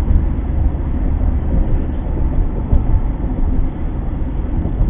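Steady low rumble of a car on the move, with road and engine noise picked up by a dashcam microphone.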